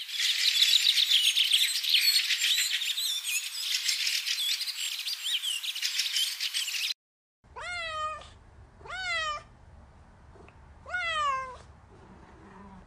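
A dense chorus of high chirping and twittering, like many small birds, cuts off abruptly about seven seconds in. Then a kitten meows three times, each meow rising then falling in pitch.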